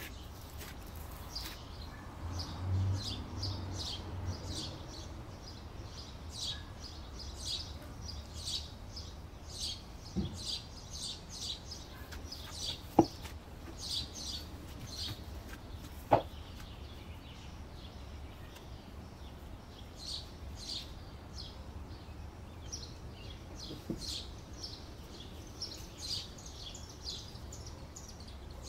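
Small birds chirping over and over, a few short high chirps a second, with a soft low handling noise a few seconds in and two sharp clicks in the middle.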